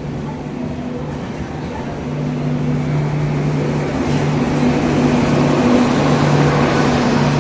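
Train running past at close range: a steady low engine drone with a rushing, rumbling noise that swells from about two seconds in and is loudest near the end.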